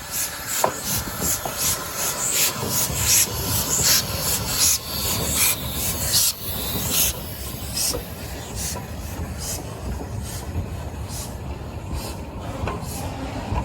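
South Australian Railways steam locomotive T251 working a train, its exhaust beating in a steady rhythm of about two to three chuffs a second, growing fainter about halfway through.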